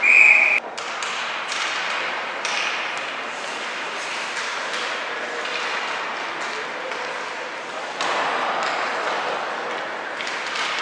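A referee's whistle gives one short, loud blast right at the start. A large-room din of crowd noise follows, with scattered knocks and taps.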